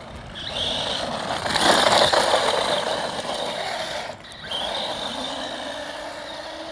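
Electric radio-controlled cars running at speed: motor whine and tyre noise that swells, dips briefly about four seconds in, then comes back and fades.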